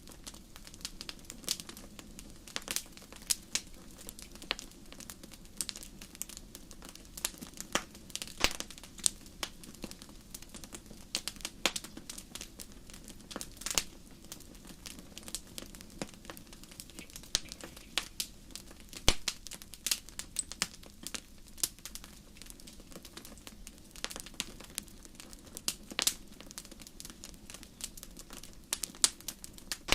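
Fire in a fireplace crackling: irregular sharp pops and snaps, some louder than others, over a low steady rumble of the flames.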